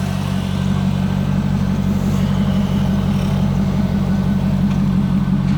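2002 Corvette C5's LS1 5.7-litre V8, fitted with an aftermarket exhaust, idling steadily.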